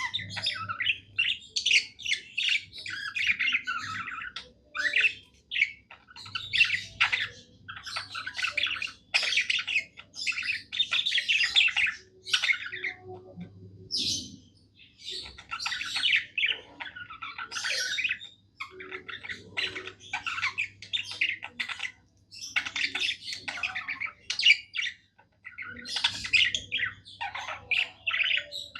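Budgerigar warbling: a long, rambling run of quick chirps, chatter and harsher squawky notes, broken by a few short pauses.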